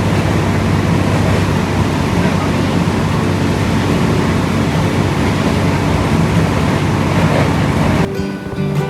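Steady, loud rumble of a moving train with a low engine hum, which cuts off suddenly about eight seconds in to strummed guitar music.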